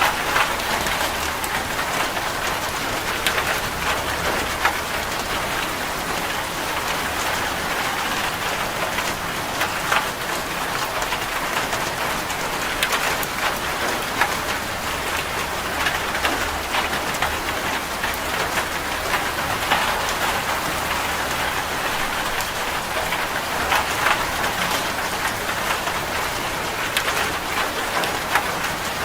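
Steady rain drumming on a corrugated zinc roof, a dense hiss of drops with many sharp individual ticks and pings through it.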